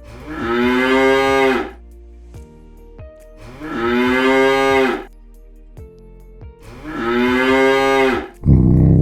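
A large animal calling three times: long, low, pitched calls about three seconds apart, each bending down in pitch at its end. A louder, rougher sound starts just before the end.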